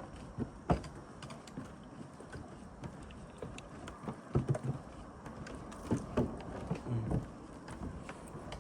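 Footsteps of a person walking, an uneven series of short knocks.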